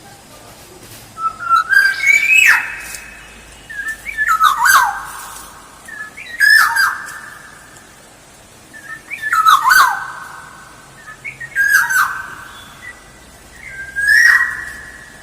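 Black-naped oriole (kepodang emas) singing: six short, fluty whistled phrases come about every two to three seconds, each sliding in pitch and then holding a clear note.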